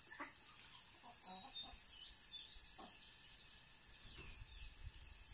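Birds chirping in a quick run of short rising and falling calls from about two seconds in, over a steady high insect drone.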